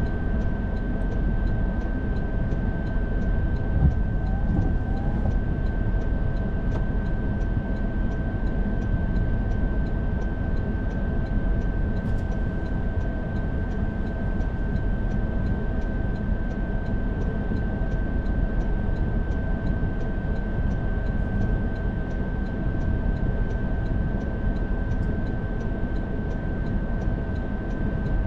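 Steady road and engine rumble of a car being driven, with a thin constant high whine running through it.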